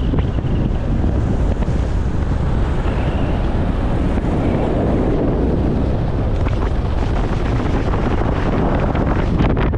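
Wind buffeting the microphone: a loud, steady low rumble of noise.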